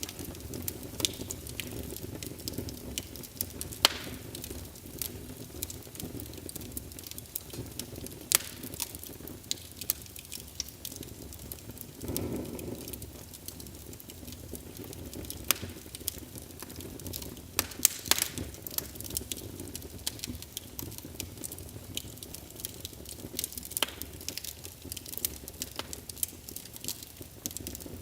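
Wood fire burning in a fireplace: a steady low rumble of flames with irregular crackles and a few louder sharp pops, and a brief swell of the flames about twelve seconds in.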